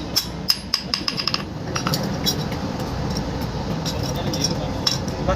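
Hammer blows on iron being forged, a string of sharp metallic clinks at an uneven pace, over a steady low rumble.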